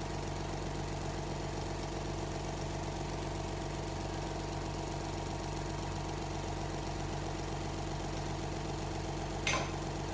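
A steady mechanical hum made of several held tones, like a motor running, with one short sharp click or clank about nine and a half seconds in.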